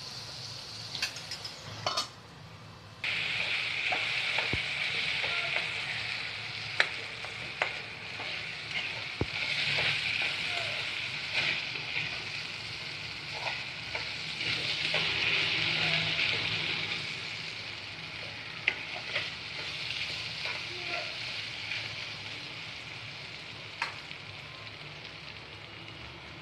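Potatoes, onion and peas sizzling in hot oil in a pan while a metal spoon stirs them, clicking and scraping against the pan now and then. The sizzle jumps suddenly louder about three seconds in.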